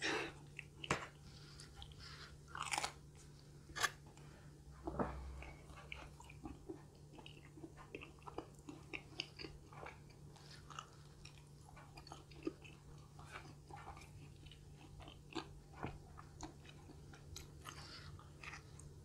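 A person eating close to the microphone: faint, irregular chewing with short clicky bites and mouth sounds, a few louder bites in the first four seconds.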